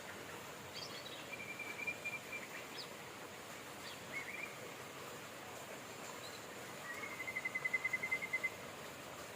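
Steady rain hiss with songbirds calling over it: a short trill of quick repeated notes a little over a second in, a few brief high chirps, and a longer, louder rapid trill near the end.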